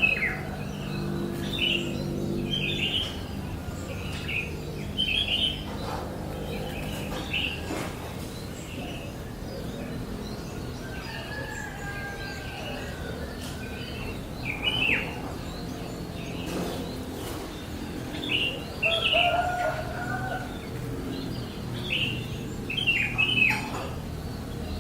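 Baby bird chirping in short, high calls repeated irregularly, some with a quick downward slide in pitch.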